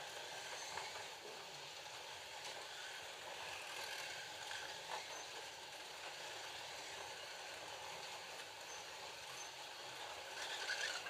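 FLY Classic slot cars with 19K electric motors running laps on the track, a steady whir with no single loud event.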